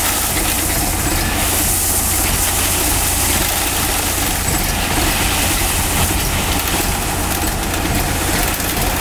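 Mahindra 575 DI tractor's four-cylinder diesel engine running steadily, a continuous low rumble.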